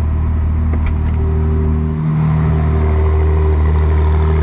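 Ferrari 296 GTB's twin-turbo V6 hybrid engine idling at a steady pitch just after startup, with a brief dip in level about two seconds in before it settles slightly louder.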